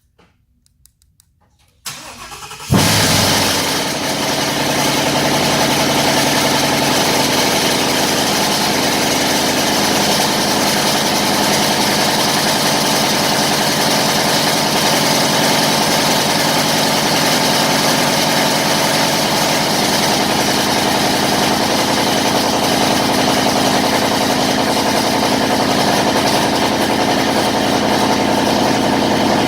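Straight-piped 2017 Ford Mustang GT's 5.0-litre Coyote V8, breathing through long-tube headers with the cats, mufflers and resonators deleted, starting from cold. After a few faint clicks the starter cranks briefly, and the engine catches with a loud flare about three seconds in. It then settles into a loud, steady cold-start idle.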